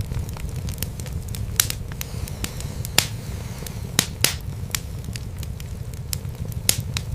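Wood fire burning in a fireplace, crackling with irregular sharp pops and snaps over a low steady rumble. The loudest pops come about three and four seconds in.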